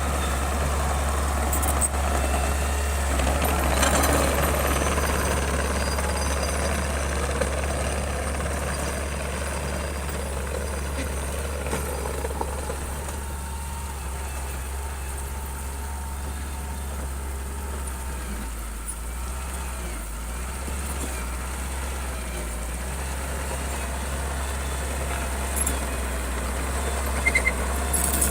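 Heavy earthmoving machine's engine running steadily with a deep drone, a little louder about four seconds in, with a few sharp clicks near the end.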